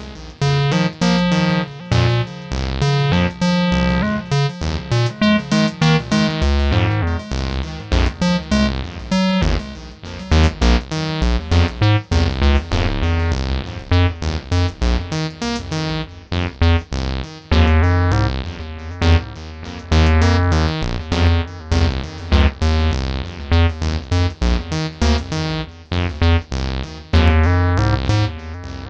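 Acid synth jam on acidmachine: a fast, staccato sequence of squelchy, filtered synth notes over a pulsing bass line.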